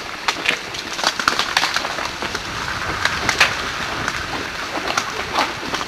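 Ice cracking and clinking as it breaks off and lands from ice-coated branches: many short, sharp cracks scattered over a steady rushing noise.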